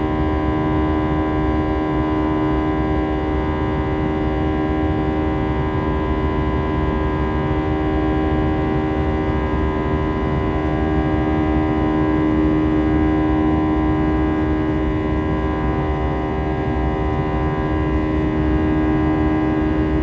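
Airbus A320 cabin drone: a steady jet engine hum made of several constant tones over a low rumble, holding even throughout.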